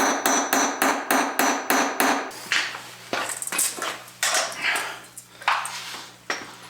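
Metal hand tools working on steel: a rapid, even run of sharp taps for about two seconds, then slower, irregular knocks and clinks over a low steady hum.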